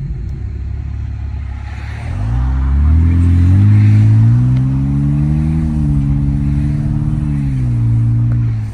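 Car engine running with its muffler cut off: a low rumble that climbs to higher revs about two seconds in, holds there for several seconds, then falls away near the end.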